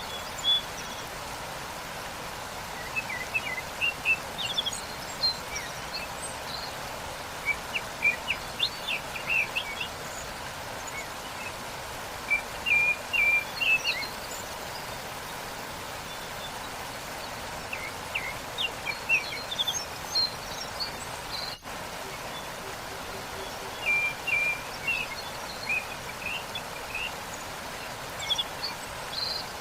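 Waterfall rushing steadily, with small birds chirping in short scattered bursts over the water noise. The sound dips out for a split second about two-thirds of the way through.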